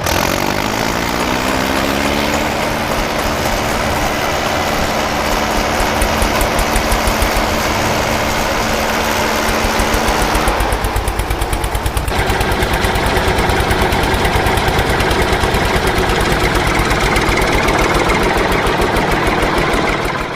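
Mini tractor's motor starting up and running, its pitch rising as it spins up, then running steadily with a pulsing beat. Its sound changes about eleven seconds in.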